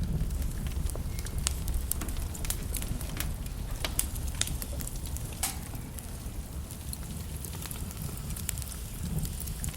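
Wood logs burning in a fireplace: irregular sharp crackles and pops over a steady low rumble of the fire.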